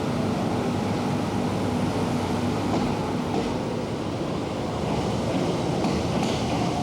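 Electric commuter train pulling out of the platform: a steady rumble, with a motor whine rising slowly in pitch as it gathers speed.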